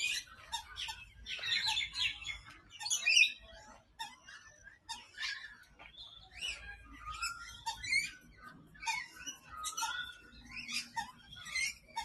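Rainbow lorikeets calling in an aviary: many short, overlapping chirping calls with quick rises and falls in pitch.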